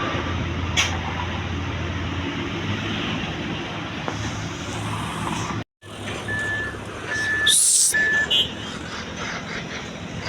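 Heavy truck engine running in road traffic. After a sudden short gap, three short high beeps sound about a second apart, with a sharp hiss of air brakes under the last two.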